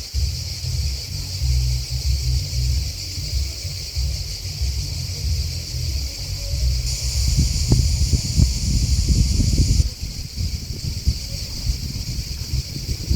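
Grasshoppers chirping in a steady high-pitched chorus over a low, uneven rumble. About seven seconds in, a nearer, louder singer joins, and it cuts off suddenly near ten seconds.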